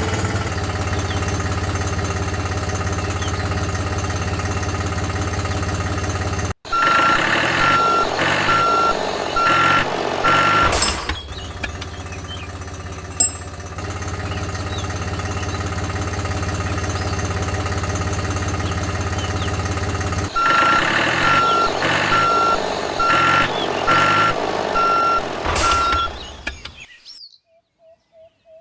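A vehicle engine running steadily, with a reversing beeper sounding a regular series of beeps, about one and a half a second, in two stretches of about four to five seconds each. The sound cuts off shortly before the end.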